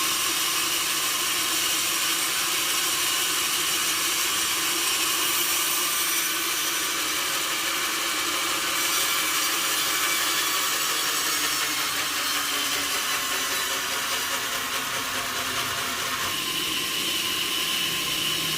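Sawmill saw cutting steadily through a log, a continuous high-pitched machine sound that changes character near the end.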